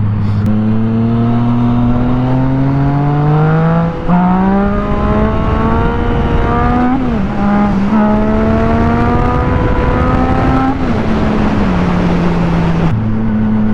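Motorcycle engine accelerating up through the gears. Its pitch climbs steadily and drops at two upshifts, about four and seven seconds in, then it eases off to a steady speed near the end. Wind rushes over the microphone throughout.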